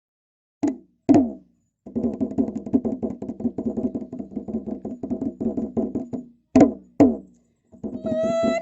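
Traditional drum music. Two loud drum strokes open it, followed by a fast, even run of drumbeats for several seconds. Two more loud strokes follow, then the fast drumming starts again, and a long held note comes in near the end.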